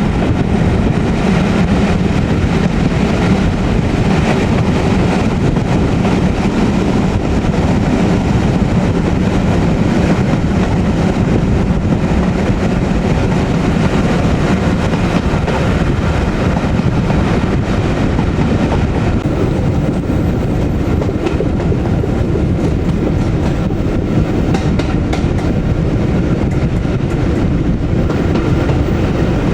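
Class 37 diesel locomotive 37667, with its English Electric V12 engine, hauling the train, heard from the carriage behind it: a steady engine drone mixed with wheel and rail noise.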